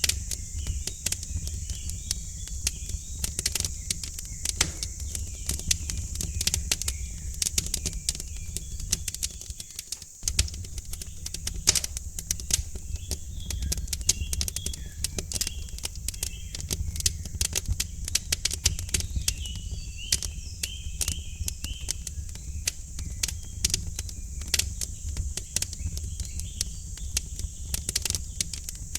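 Wood fire crackling in a fireplace: a steady stream of small pops and snaps over a low rumble, with faint bird chirps and trills here and there.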